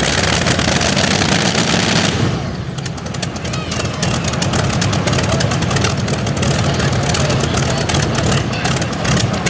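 Twin-engine modified pulling tractor running hard under load, its engines making a loud, rapid crackling exhaust. A bright hissing rush drops away about two seconds in.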